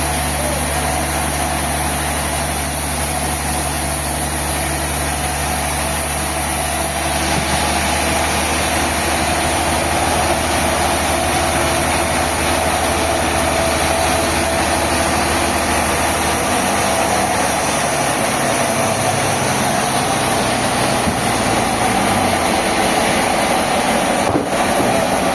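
Heavy sawmill machinery running continuously, a steady engine-like drone whose low hum changes pitch a few times.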